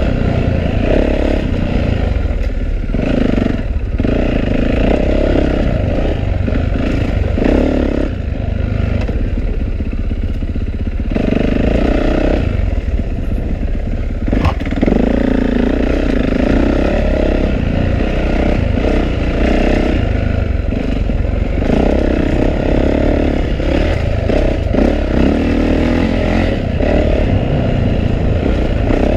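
Yamaha YZ450F dirt bike's single-cylinder four-stroke engine running hard on a trail, its revs rising and falling every few seconds as the throttle opens and closes, with a single sharp click about halfway through.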